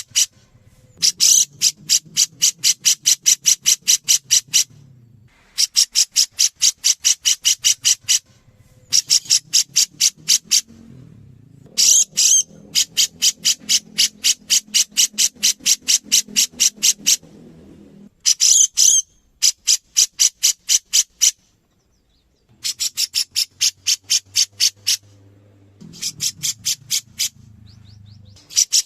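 Grey-cheeked bulbul (cucak jenggot) calling in rapid, evenly repeated sharp notes, about six a second, in bouts of two to four seconds with short pauses between them.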